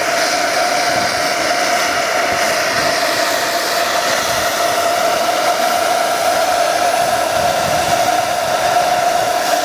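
Model helicopter's small gas turbine engine running steadily: a constant whine over a rushing noise.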